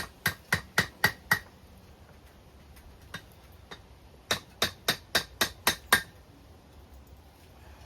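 Blacksmith's hammer striking a hot chain link on the anvil to even out the bend: a run of six quick ringing blows, a pause of about three seconds, then a second run of about seven blows, roughly four a second.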